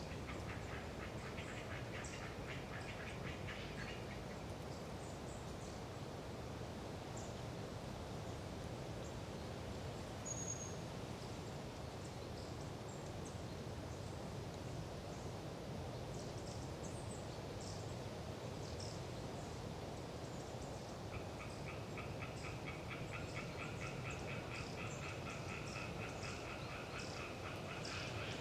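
Eastern tree frogs (Hyla orientalis) calling in rapid trains of pulses, in a bout over the first few seconds and again from about two-thirds through, over a steady wind in the trees. Thin, high calls of long-tailed tits come through now and then.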